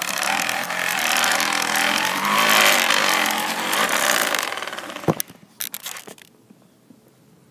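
Crushed plastic water bottle rattling rapidly against the spokes of a moving bicycle wheel, a continuous buzz meant to imitate a dirt bike's engine. The buzz fades out about four and a half seconds in, followed by a sharp click and then only faint sounds.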